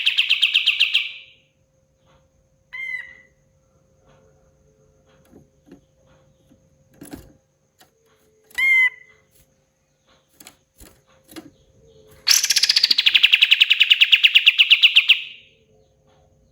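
Kapas tembak bulbul singing: a loud, very fast trill of rapidly repeated notes that dies away about a second in, single short hooked call notes around three seconds and near nine seconds, then another loud rapid trill lasting about three seconds near the end. A faint steady hum lies underneath.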